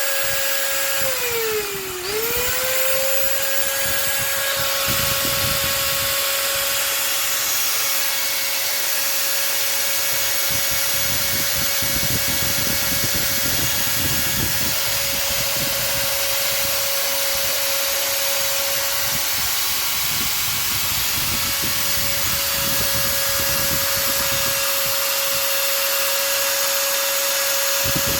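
Makita M9510 angle grinder running steadily at full speed with a high whine. About a second and a half in, its pitch sags sharply and climbs back within a second. Rougher low rumbling comes and goes a few times.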